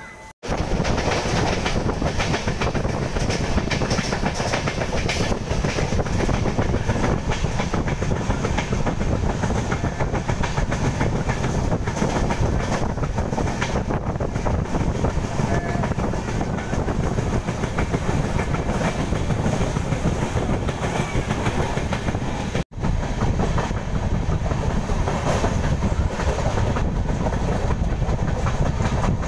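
Kovai Express passenger train running at speed, heard from on board: a steady rumble of wheels on the track with the rhythmic clickety-clack of rail joints. The sound drops out briefly once, about three-quarters of the way through.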